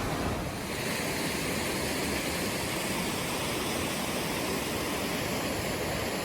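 Steady wind rushing over the microphone, a continuous even noise without distinct events.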